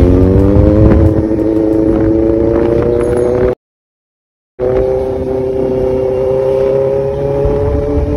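Motorcycle engine running under way, its pitch rising slowly and steadily, over a low rumble of wind and road noise. The sound cuts out completely for about a second a little past halfway.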